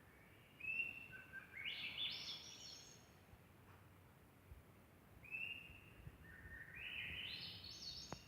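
A songbird singing twice, each phrase an opening note followed by a quick run of notes climbing in pitch, over faint background hiss.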